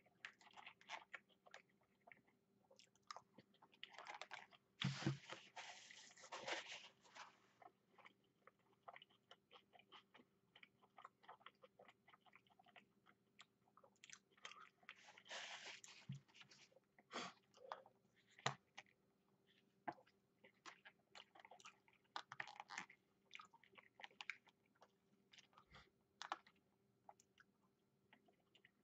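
A person chewing and crunching takeout Chinese food close to the microphone, with many short clicks. Two longer noisy stretches come about five and fifteen seconds in.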